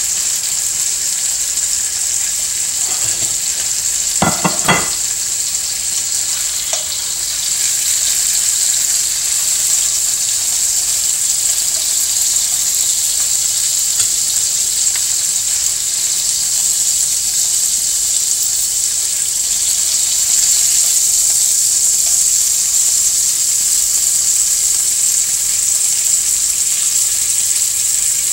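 Thin chicken breasts frying in olive oil in a skillet: a steady sizzle. A couple of brief sharper sounds stand out about four seconds in.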